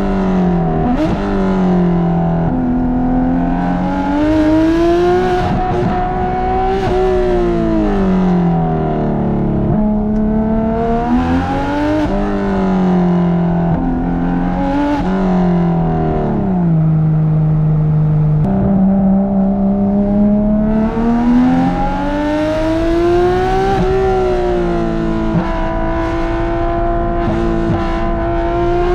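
Porsche 991.2 GT3 RS's 4.0-litre flat-six, fitted with Dundon street headers and Crack Pipe exhaust, pulling hard on the road. Its exhaust note climbs under acceleration and falls away on gear changes and lifts, again and again. It holds a steady low note for a couple of seconds past the middle, then jumps up sharply.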